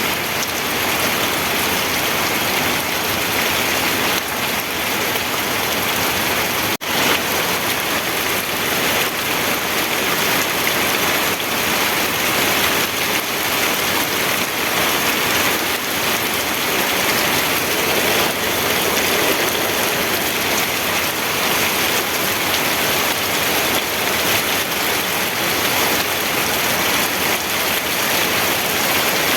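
Steady rain falling on a surface, a dense continuous hiss of drops with no change in intensity. The sound breaks off for a split second about seven seconds in, then carries on.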